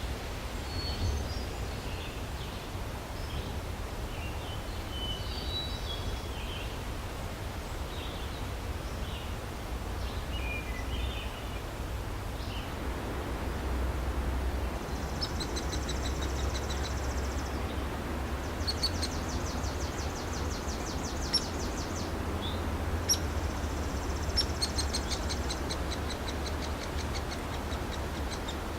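Songbirds singing over steady wind, with a low wind rumble throughout. Scattered short chirps and song phrases in the first twelve seconds give way to a fast, high trill repeated several times from about fifteen seconds in.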